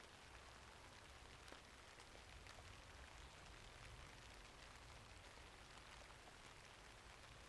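Faint, steady rainfall, with scattered small sharp clicks through it.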